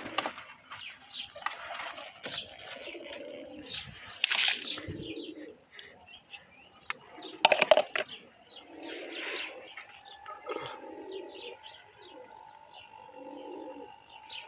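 Domestic pigeons cooing over and over in low, rounded calls. A few sudden rustling bursts break in, the loudest about seven seconds in, and a faint steady hum sits under the later part.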